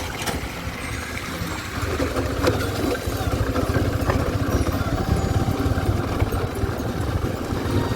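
Motorcycle engine running while riding over a rough, muddy road: a steady low rumble that grows a little louder about two seconds in, with a few sharp knocks.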